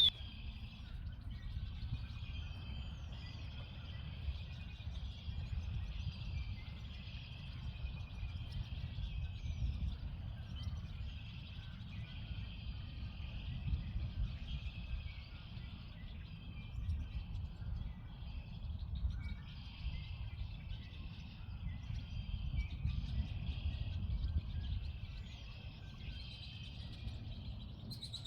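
Spring outdoor ambience: birds chirping over a steady high-pitched chorus of trilling calls, with an uneven low rumble underneath.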